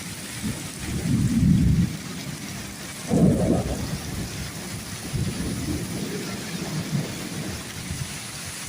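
Heavy rain falling steadily in a thunderstorm. Low rumbles swell up loudest about a second in and again about three seconds in, with weaker ones later.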